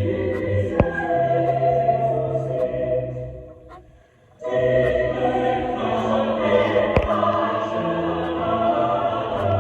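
Choral, operatic music played back from an Elcaset tape on a Sony EL-5 deck. The music fades almost to nothing just before the middle and then starts again, with two sharp clicks, one about a second in and one near the end.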